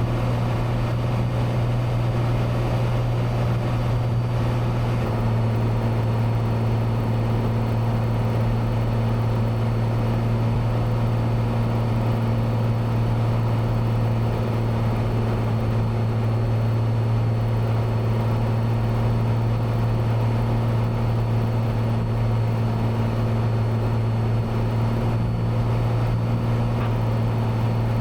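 Cessna 182's piston engine and propeller droning steadily, heard inside the cabin in flight. The drone's pitch steps slightly lower about five seconds in, then holds.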